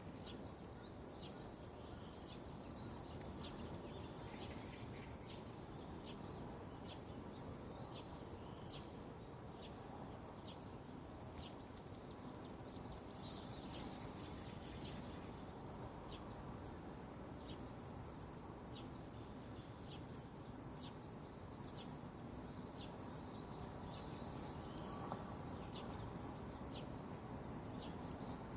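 A bird repeating one short, high chirp about three times every two seconds, over steady outdoor background noise.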